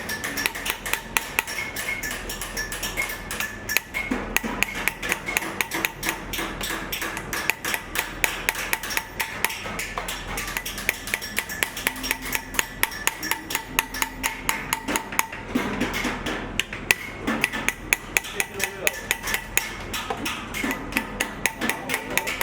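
Rapid, steady hammer taps on sheet metal, several a second, with a light metallic ring: typical of chasing or embossing a copper panel by hand.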